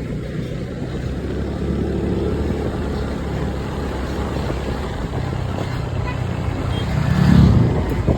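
Steady low rumble of a running vehicle, swelling louder about seven seconds in.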